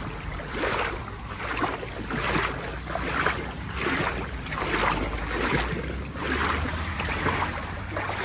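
Legs wading through knee-deep floodwater, a rhythmic swish and slosh with each stride, a little over one step a second. Low wind rumble on the microphone underneath.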